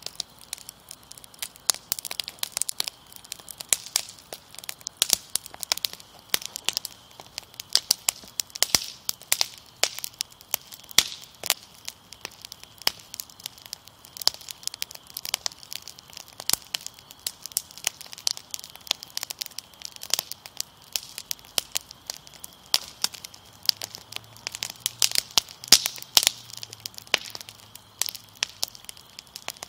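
Wood fire crackling, with many sharp irregular pops and snaps over a soft hiss.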